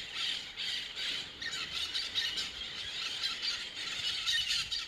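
A flock of green parrots calling together: a dense chatter of many overlapping shrill squawks and screeches.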